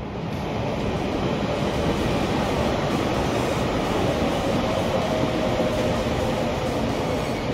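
Electric commuter train passing close below: a steady rumble and rush of wheels on rails that swells about a third of a second in and holds, with a faint steady whine rising above it in the middle.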